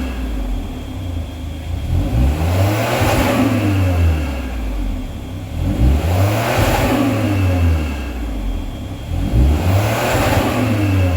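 2019 Ford Focus Mk4's 1.5-litre turbo three-cylinder revved three times through an aftermarket low-volume transverse rear muffler with a single 3.5-inch stainless tip. The engine note rises and falls back each time, settling to idle in between.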